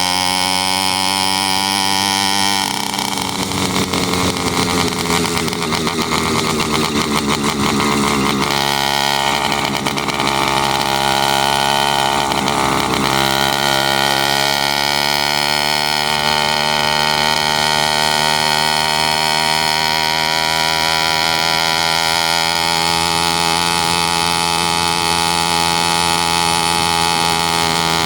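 Motorized bicycle's small engine running under way, its pitch shifting with the throttle a few times and then slowly climbing as the bike speeds up.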